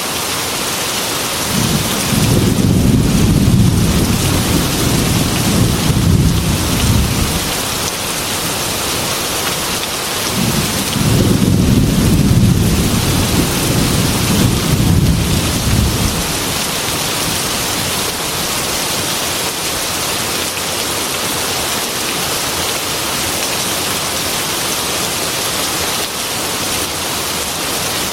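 Heavy rain falling steadily, with two long low rolls of thunder, the first starting a second or two in and the second about ten seconds in, each rumbling for five or six seconds.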